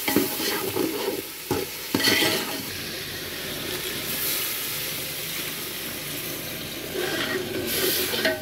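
A metal ladle stirring and scraping a chicken, tomato and spice masala as it fries in oil in an aluminium pot (the bhuna stage), with steady sizzling and a few sharp knocks of the ladle against the pot about one and a half and two seconds in.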